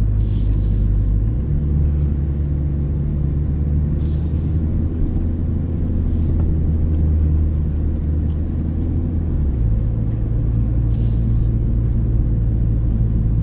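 MINI JCW Countryman's turbocharged four-cylinder engine running at low, steady revs, heard from inside the cabin at a slow pace. The engine note steps up about a second in and drops back near the ten-second mark.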